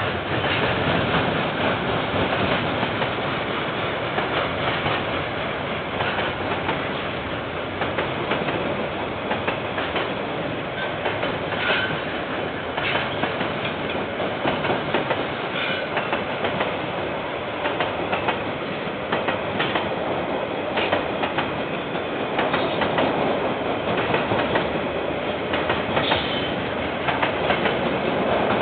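KiwiRail train wagons rolling past steadily, wheels clicking over the rail joints, with a couple of brief wheel squeals, heard through a security camera's microphone.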